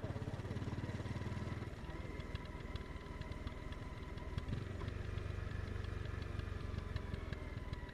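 Honda CBR 250R's single-cylinder engine running while riding, its exhaust and intake picked up from the rider's pockets. The engine note shifts about two seconds in.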